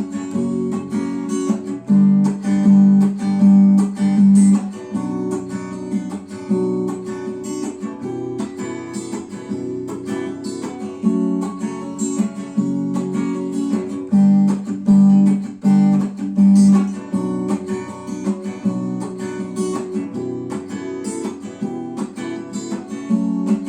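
Acoustic guitar strummed in a steady rhythm of chords with no voice, the instrumental close of a song after its last sung line. Heavier accented strokes come twice, a few seconds in and again past the middle.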